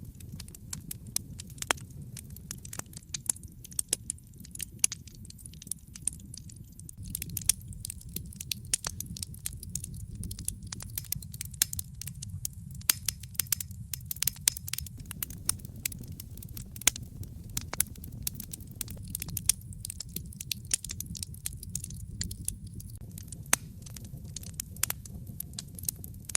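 Wood fire burning in a fireplace: a steady low rumble of the flames under frequent sharp, irregular crackles and pops, busiest in the middle of the stretch.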